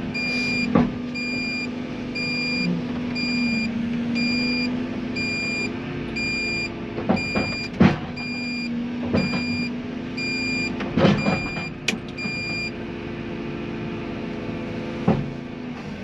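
Tracked excavator's diesel engine working steadily, with a warning beeper sounding about twice a second that stops about three-quarters of the way through. Several sharp knocks and clunks of the bucket scraping soil come over the engine.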